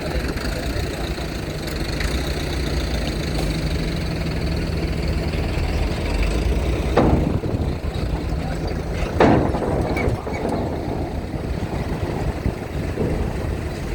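Vehicle engines idling and running, a steady low drone, with two short loud bursts of noise about halfway through, roughly two seconds apart.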